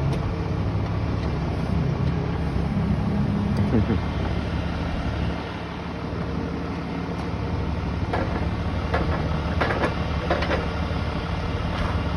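Engine running steadily at idle, a low even hum, with a few short knocks or clicks about eight to ten seconds in.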